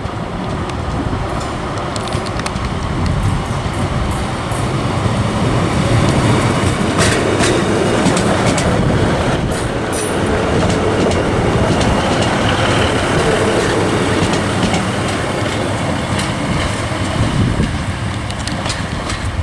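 A Class 156 Super Sprinter diesel multiple unit pulling out under power, its diesel engines running and its wheels clicking over the rail joints and pointwork. The noise builds to its loudest about halfway through as the unit passes, then fades.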